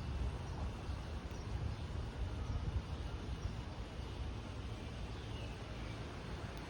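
Outdoor backyard ambience: a steady low rumble with a few faint, short bird calls over it, one a brief falling note about five seconds in.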